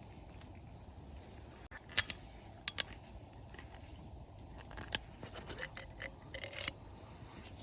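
Several sharp clicks and light clinks: two about two seconds in, two more shortly after, one near the middle, and a quicker run of them in the second half, over a faint steady background hiss.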